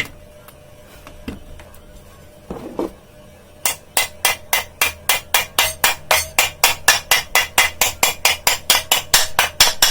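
Hammer tapping a new ball bearing into a ceiling fan's upper cover. After a few scattered taps, rapid even blows of about four a second begin a few seconds in and drive the bearing into its seat.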